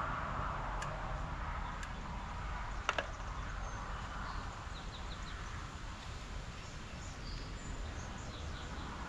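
Quiet outdoor background with birds chirping faintly in the second half. A passing vehicle fades out at the start, and a few light clicks sound in the first three seconds.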